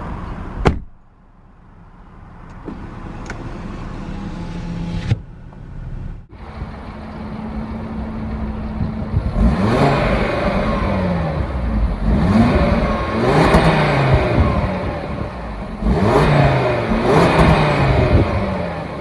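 2019 Audi RS Q3 Sportback's turbocharged 2.5-litre five-cylinder engine being revved repeatedly, the revs climbing and dropping several times in the second half. A sharp click comes under a second in.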